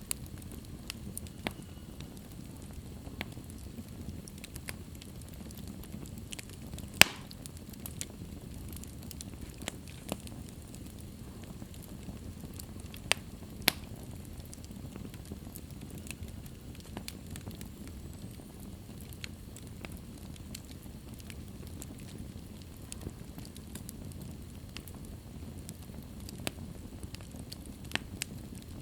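Wood fire burning in a fireplace: a steady low rustle of flames with scattered sharp crackles and pops, the loudest pop about seven seconds in and two more a little after thirteen seconds.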